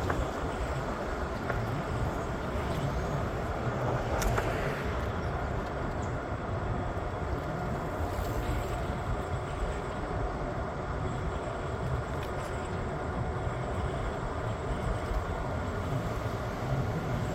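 PATH train in motion: a steady, even rumble of the rail car running along the track, with a few faint clicks.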